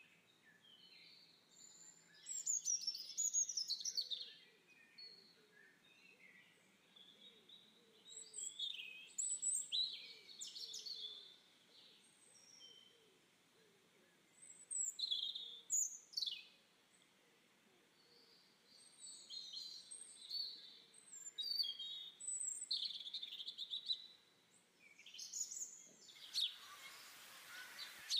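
Faint birdsong: short chirps and quick sweeping whistles in separate phrases with quiet gaps between them. A steady hiss comes in near the end.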